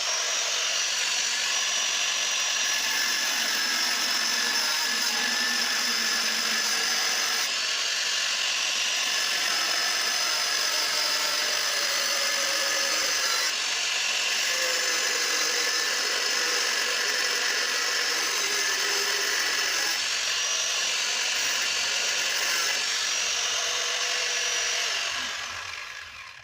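Grinder cutting through the metal stock silencer of a Rusi Classic 250 motorcycle exhaust: a steady, high grinding that dies away near the end as the cut finishes.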